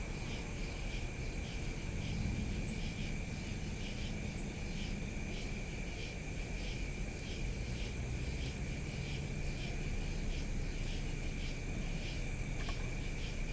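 Night insects, crickets or katydids, chirping in an even pulsing rhythm of about two to three pulses a second over a steady high trill, with a low steady rumble underneath.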